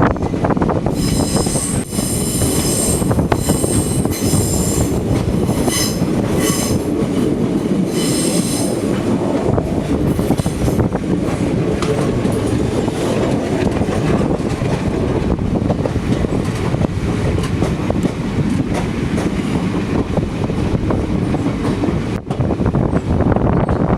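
Passenger train running on the rails with a steady rumble. For the first third, high-pitched wheel squeal comes and goes in several spells, typical of wheels grinding against the rail on a curve.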